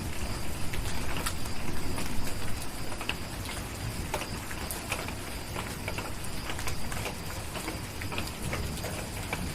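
Steady rain with a wood fire crackling over it: irregular sharp pops and snaps over an even hiss.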